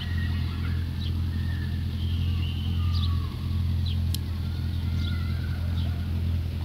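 Steady low vehicle engine hum, with short high chirps scattered over it and two brief sharp clicks.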